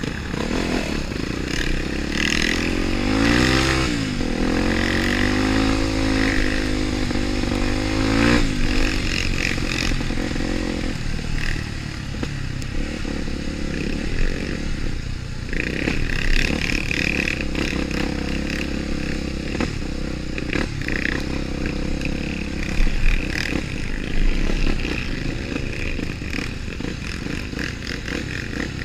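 Off-road motorcycle engine revving, its pitch rising and falling for several seconds, then running on with a rougher, noisier sound and scattered knocks.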